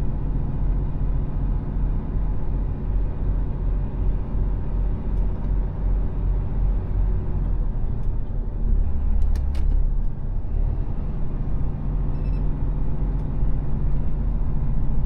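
Mercedes Actros truck's diesel engine running with a steady low drone over road noise. Between about eight and a half and ten seconds in, the low engine note shifts briefly and a couple of short clicks are heard.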